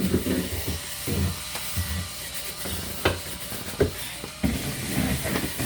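Handling and cleaning sounds inside a refrigerator: uneven rubbing with a faint hiss, and sharp clicks about three seconds in, again just after, and near the end.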